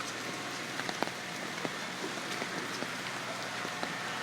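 Steady rain falling, with many scattered sharp ticks of drops striking close by.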